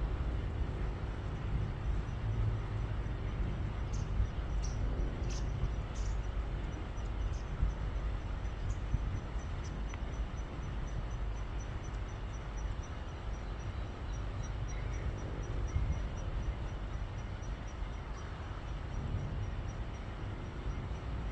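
Steady low outdoor rumble, with a few faint clicks about four to six seconds in. From about seven seconds on there is a faint high ticking, about four ticks a second.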